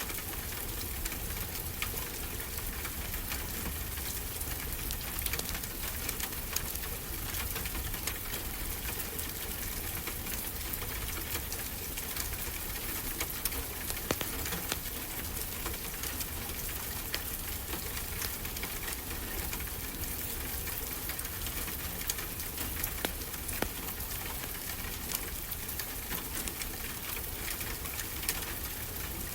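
Wood fire crackling, with scattered sharp pops over a steady wash of ocean surf.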